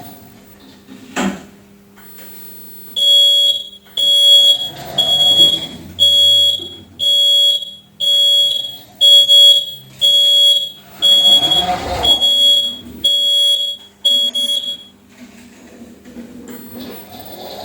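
Electronic warning beeper on a Lavor Comfort XXS floor scrubber sounding a steady series of about a dozen loud beeps, about one a second. A short click comes a little before the beeping starts.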